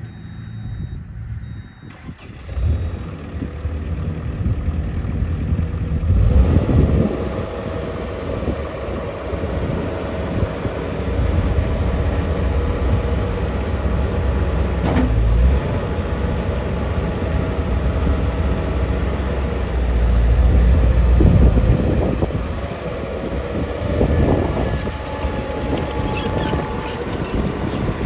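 Diesel engine of a CAT 257B skid steer loader running steadily, growing louder for a few seconds around 6 seconds in and again about 20 seconds in as it is revved or put under load.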